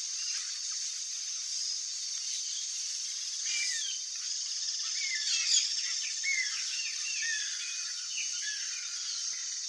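Birds chirping: many short, quick, curving notes from about three and a half seconds in, over a steady high hiss like insects or wild ambience.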